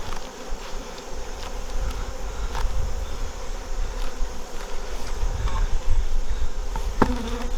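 Honey bees buzzing steadily around an open hive, with a few sharp clicks from handling scattered through it.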